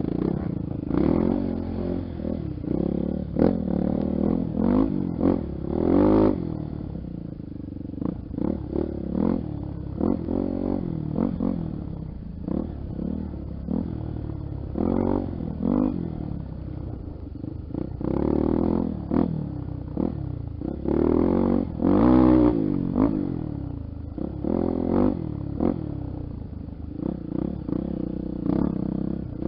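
Honda XR 250 Tornado's single-cylinder four-stroke engine being ridden off-road, the throttle opened and closed over and over so the engine note keeps rising and falling, with the strongest surge about two-thirds of the way through.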